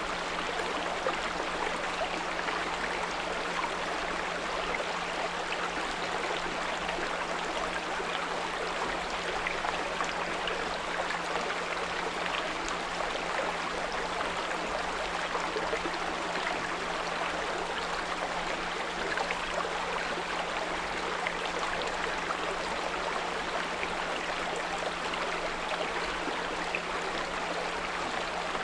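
Small brook running steadily, an even rush of flowing water, with a steady low 174 Hz pure tone held underneath.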